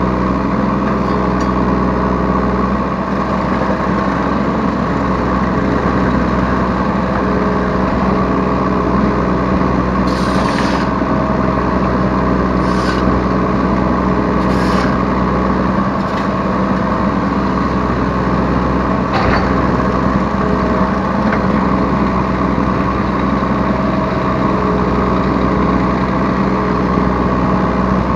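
Yanmar B3 Sigma mini excavator's diesel engine running steadily under hydraulic work, heard from the operator's seat. A few short rushing noises come in the middle.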